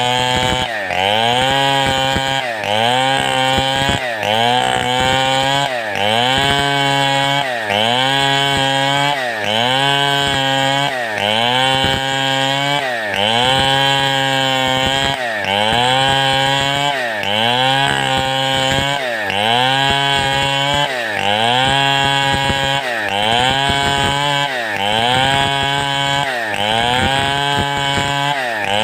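Large two-stroke chainsaw of the Stihl 070 type cutting wood, its engine pitch dropping under load and climbing back again about every two seconds as the bar is rocked back and forth through the cut.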